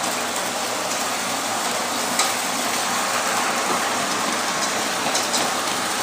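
Toy train running fast along its track: a steady hissing rattle with a couple of sharp clicks.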